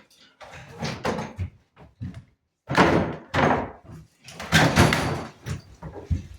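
Loud bangs and clatter of renovation work, in three main bursts of knocking and rattling.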